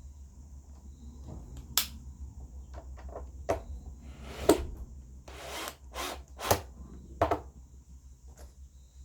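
Workshop handling of a wooden speaker cabinet: a series of sharp knocks and clicks with a couple of brief scrapes, over a steady low hum.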